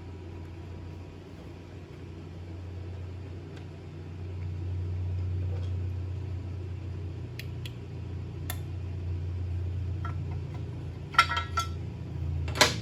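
Steady low hum in the workshop, with a few light metallic clicks and then two loud brief clatters of metal parts near the end as engine cover hardware is removed and set down.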